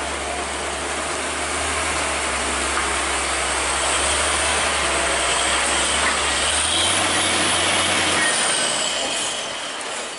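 Heavy truck engine running under load with a low steady hum and broad road noise, growing louder through the middle and falling away about eight seconds in.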